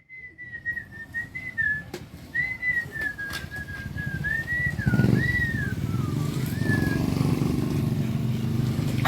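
A person whistling a wandering tune with small pitch glides for about seven seconds. From about five seconds in, a motor vehicle's engine rumble rises and runs steadily beneath it.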